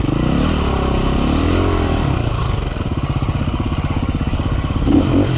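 KTM EXC 350F four-stroke single-cylinder dirt bike engine running under way, its revs rising and falling with the throttle.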